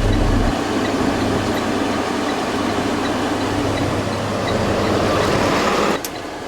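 Cummins B6.7L diesel engine of a Freightliner M2 dump truck idling steadily; the deep rumble drops away about half a second in, and the sound cuts off suddenly about six seconds in.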